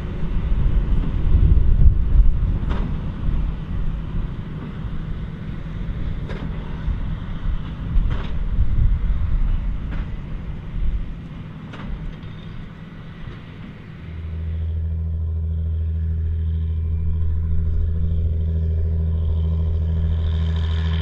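Large farm tractor working in the field: a rough engine rumble with a sharp knock about every two seconds. About two-thirds of the way through it gives way to a steady, even engine drone.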